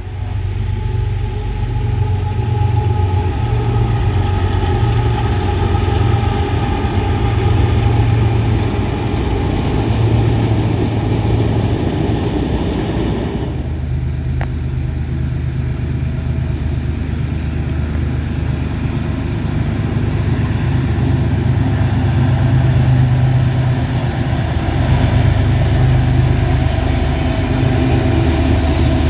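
Norfolk Southern freight train passing, its diesel locomotives running under power with a loud, steady low rumble. About halfway through, the higher-pitched part of the sound drops away while the rumble carries on.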